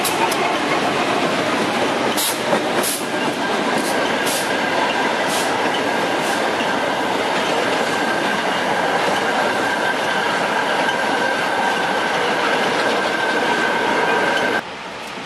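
MRS Logística freight train rolling past close by: a steady rumble of steel wheels on rail, with a thin, steady wheel squeal held through most of it and sharp clicks of wheels over rail joints in the first few seconds. The sound cuts off suddenly near the end.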